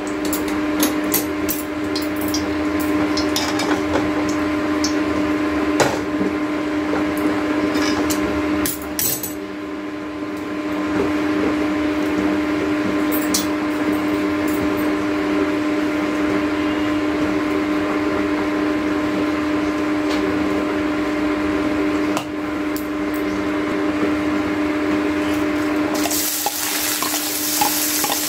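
Oil heating in a steel kadhai on a gas stove, with a steady hum and scattered small clicks. Near the end chopped vegetables are tipped in from a steel bowl and the hot oil starts sizzling: the first stage of frying the masala for a curry paste.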